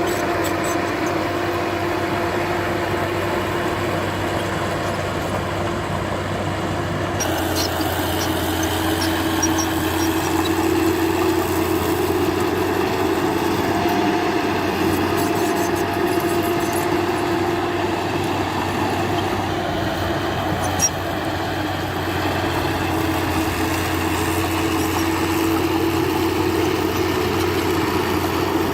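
Diesel engine of heavy earthmoving machinery running steadily, with a continuous whine over it that swells slightly now and then, and one short sharp click about two-thirds of the way through.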